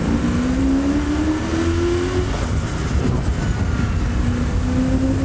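Turbocharged V8 of a TVR Chimaera accelerating hard under boost, the engine note rising, dropping at a gear change about halfway through, then rising again. A high turbo whistle sweeps up with it.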